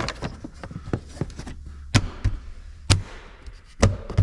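Handling noises: a run of small clicks and knocks, with three sharper knocks about a second apart, as parts are fitted and fastened by hand.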